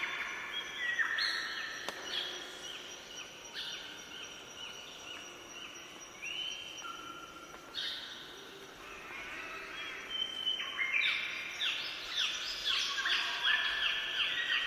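Several songbirds singing at once, short clear whistled notes stepping up and down in pitch and overlapping, growing busier near the end.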